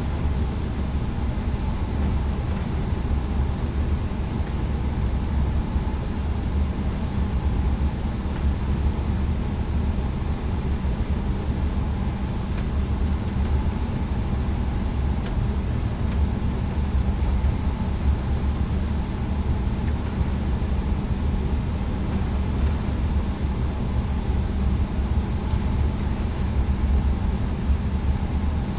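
Airbus A320neo cabin noise on the ground with the engines at idle: a steady low rumble with a faint steady hum over it.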